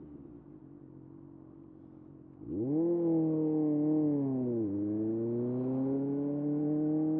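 Kawasaki ZX-6R's inline-four engine running steadily and fairly quietly, then the throttle opens about two and a half seconds in and the revs rise sharply. About two seconds later the revs drop abruptly at a gear change and climb again steadily as the bike pulls.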